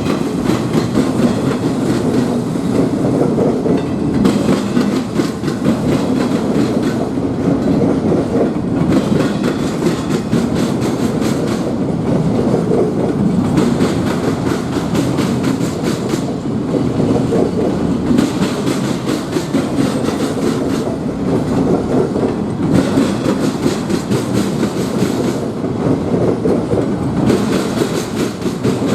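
A train's cars rolling past, the wheels clicking steadily over the rail joints with a continuous rumble.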